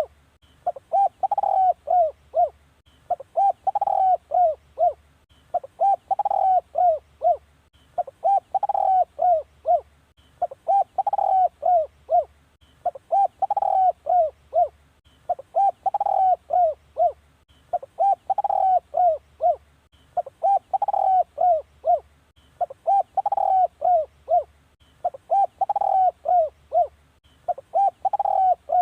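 Spotted dove cooing, a decoy call: the same short phrase of several quick coos repeats at very even spacing, about every two and a half seconds.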